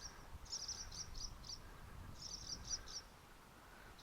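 Barn swallows giving short, high alarm chirps in two quick runs, starting about half a second in and again a little after two seconds, a defence call against a person close to their nest.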